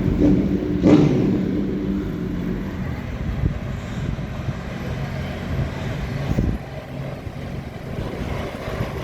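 Tractor engine running steadily, swelling briefly about a second in and getting quieter after about six and a half seconds.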